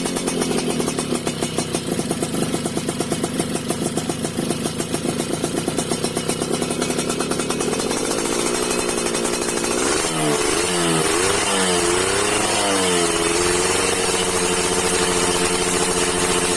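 Yamaha Fiz R two-stroke motorcycle engine running through a MAMS Racing standard-racing aftermarket exhaust, with a rapid pulsing beat for about ten seconds. It is then revved up and down a few times and held at higher revs.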